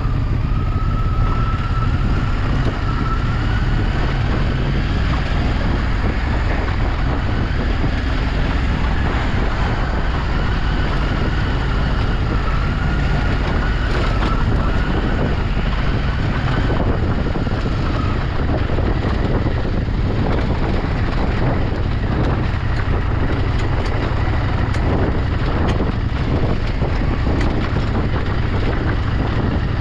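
Motor vehicle on the move: a steady engine and road rumble with wind buffeting the microphone, and a faint whine that slowly rises in pitch and fades out about two-thirds of the way through.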